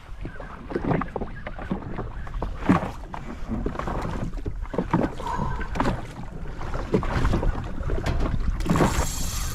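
Water slapping and sloshing against a jet ski's hull, with wind buffeting the microphone, and a hissing splash of spray near the end.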